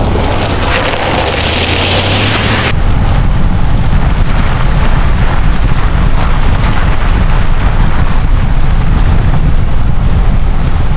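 Ram 1500 pickup driving through snow, with wind buffeting the microphone. About three seconds in the high hiss cuts out and a louder, heavy low rumble takes over.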